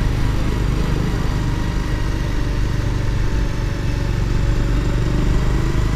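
Motorcycle running steadily while being ridden, its engine and road and wind noise forming a constant drone.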